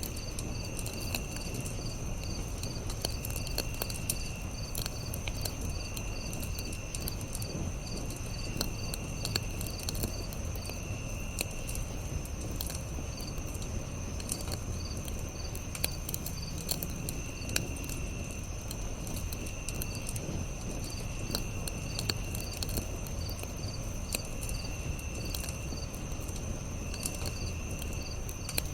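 Campfire crackling, with frequent small pops over a low steady rumble. Insects chirp throughout: a steady high trill with a fast pulsing chirp, and a lower trill that comes in bursts of about a second every couple of seconds.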